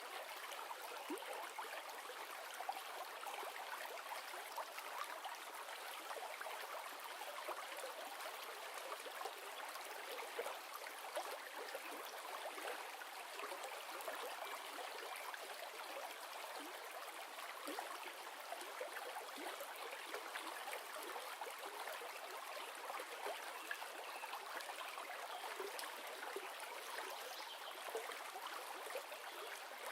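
River water flowing and burbling steadily, with fine splashing and trickling and no low rumble.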